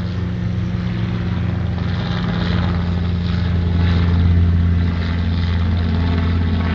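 Military helicopter flying past, its rotor and engine giving a loud steady low drone.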